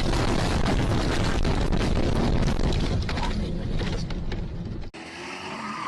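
Loud vehicle rumble with crackling noise, cut off abruptly about five seconds in by a switch to a quieter clip.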